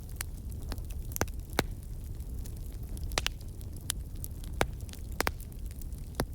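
Fire in a fireplace crackling, with sharp pops at irregular moments over a low, steady rumble of the flames.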